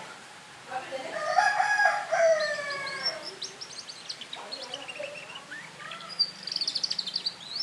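Canary singing quick, high chirps and trills. Before them comes a louder, lower, drawn-out call about two and a half seconds long.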